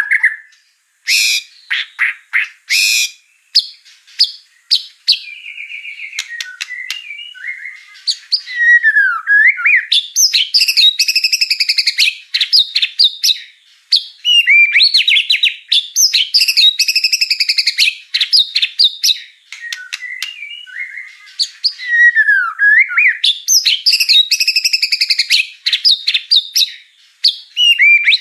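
White-rumped shama (murai batu) singing a long, varied song full of mimicked phrases, with whistles, sweeping notes and sharp calls. A loud phrase of rapid notes comes back three times.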